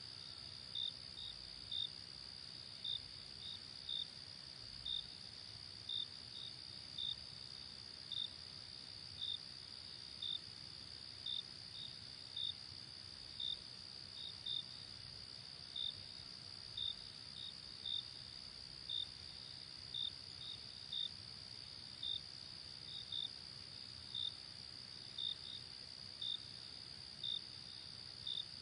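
Night crickets: a steady high trill runs continuously while a cricket chirps about once a second, often in quick pairs, over a soft background hiss.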